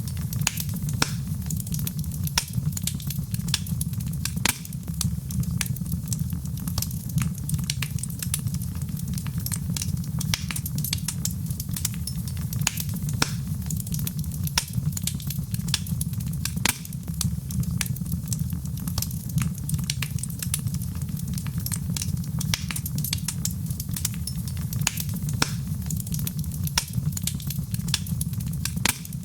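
Wood fire crackling in a fireplace: dense, irregular pops and snaps over a steady low rumble of burning.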